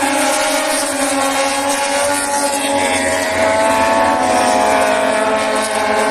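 Several racing motorcycle engines running at high revs together, their pitches shifting slowly as the bikes ride through the corner.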